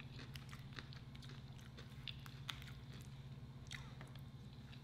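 Faint chewing and wet mouth clicks as a person eats, over a steady low hum.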